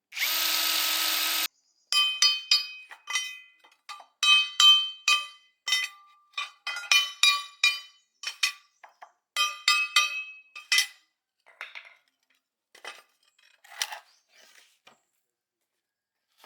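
Metal parts and hand tools clinking against each other, in a rapid, irregular run of sharp strikes that ring briefly and grow sparser toward the end. A steady noise lasts about a second and a half before the clinking starts.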